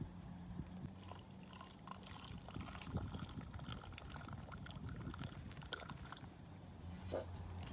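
Water pouring, with scattered small clicks and knocks.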